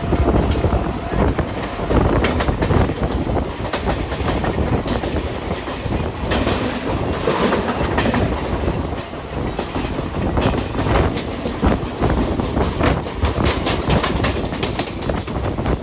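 Mumbai suburban electric local train running at speed, heard from its open doorway: wheels clattering over rail joints and through points in a dense run of clicks. Near the end another local train passes close alongside.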